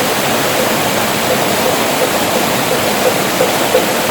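Mountain valley stream rushing steadily over rocks, a constant wash of water noise. A faint regular pulse, about three a second, sits under it in the second half.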